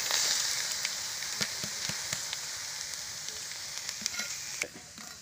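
Raw shrimp, chopped garlic and sliced red chilies hitting a hot wok: sizzling with crackling pops, loudest at first and fading, dropping off sharply near the end.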